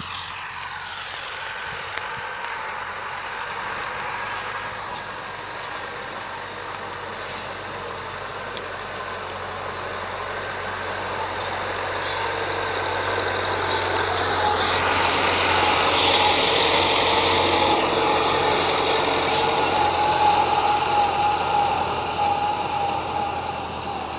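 T-40 wheeled tractor's diesel engine running steadily with a whine over it, growing louder through the middle and easing off a little near the end.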